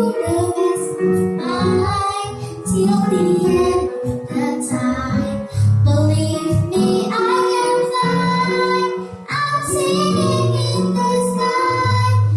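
A girl singing a song over a backing track with a steady bass line.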